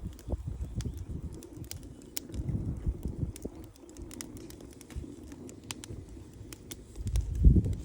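Wood campfire crackling, with frequent sharp pops and snaps over a low, uneven rumble that swells loudest near the end.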